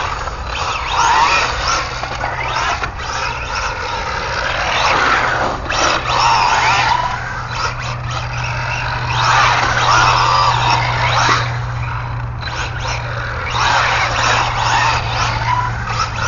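Radio-controlled ARRMA Infraction 3S car driving hard: the brushless motor's whine rises and falls in repeated swells every few seconds as it accelerates and backs off, with the tyres scrubbing and sliding on the surface.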